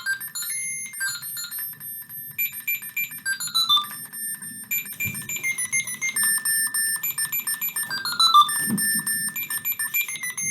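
Tekno robotic puppy toy playing an electronic tune through its small speaker: a string of stepped beeping tones with several quick descending runs and stretches of rapid pulsing.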